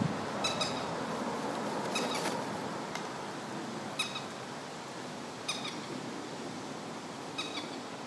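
A bird calling with short, high notes, mostly in pairs, repeated every second or two over a steady background hiss.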